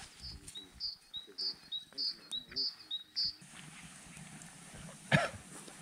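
A small songbird repeating a high two-note phrase about six times in quick succession, then stopping. Near the end comes a single sharp crack, the loudest sound.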